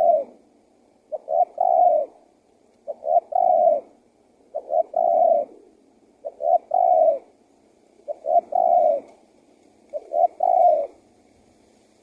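Male spotted dove cooing: a repeated phrase of two short notes and a longer one, about every 1.7 seconds, six times.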